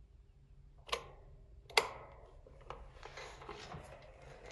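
Comfort Zone 12-inch metal cradle fan's motor humming faintly without turning the blades: the motor has seized up. Two sharp clicks about a second apart from its switch, then a lighter click.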